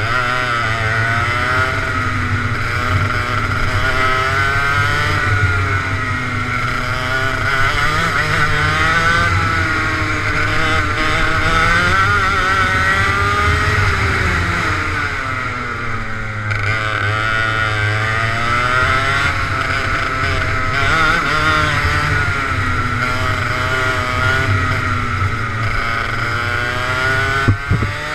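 Go-kart engine running hard on a lap, its pitch climbing and falling again and again as it accelerates and backs off.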